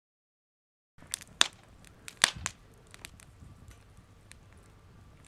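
Wood fire crackling, with irregular sharp pops, two of them loud, after about a second of silence.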